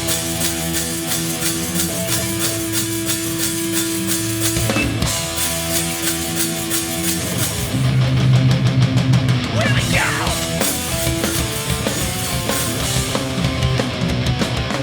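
Live New York hardcore band playing an instrumental intro: distorted electric guitars holding chords over a driving drum kit.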